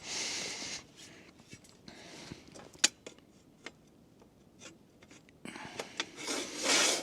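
Metal parts of a portable folding fire pit being slid into place and handled: a short scrape, scattered light clicks with one sharper click about three seconds in, and a longer scrape near the end.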